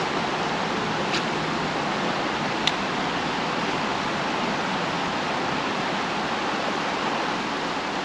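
Creek water rushing and splashing over rocks, a steady hiss. Two small clicks sound over it, about one and two and a half seconds in.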